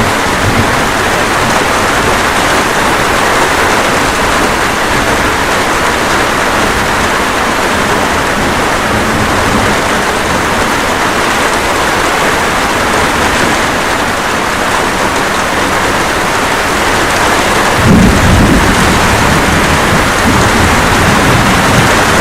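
Steady rain falling, with a low roll of thunder that rumbles in about three quarters of the way through and carries on for several seconds.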